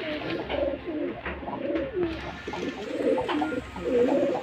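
Pigeons cooing, several calls overlapping, with a few sharp taps or wing flicks among them.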